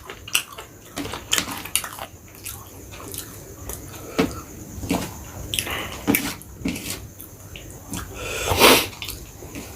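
Close-miked chewing and mouth sounds of someone eating chicken biryani: irregular wet smacks and clicks, with one louder, longer noise about eight and a half seconds in.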